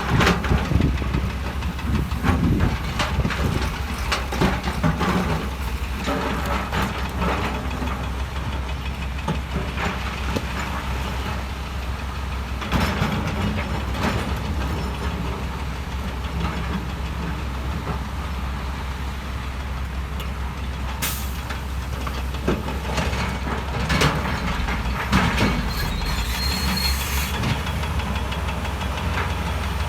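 Heavy diesel construction machinery running steadily, with scattered sharp clanks and knocks as stone is moved.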